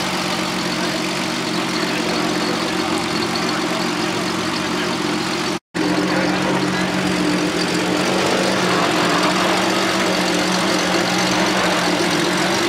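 Car engine idling steadily at an even pitch, over the murmur of a crowd. The sound cuts out for an instant a little before halfway, then carries on the same.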